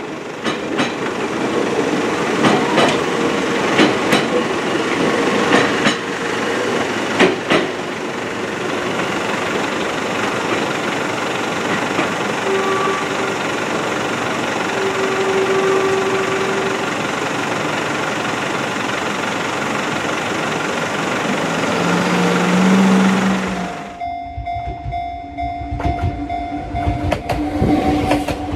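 An Enoden electric train running on its rails, the wheels clicking over rail joints in the first several seconds, then a steady running rush with a few brief tones. Near the end the sound changes abruptly to a duller, lower rumble with two steady tones.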